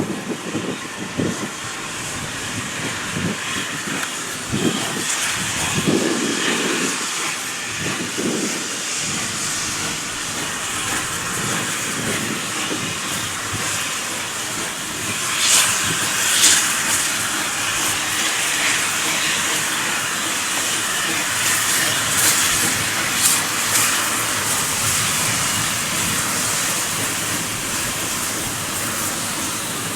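Steam locomotive hissing steadily, with louder surges of steam about halfway through and again later.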